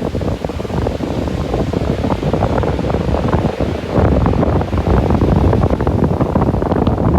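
Wind buffeting the microphone: a loud, uneven rumble with crackling gusts, growing louder about four seconds in.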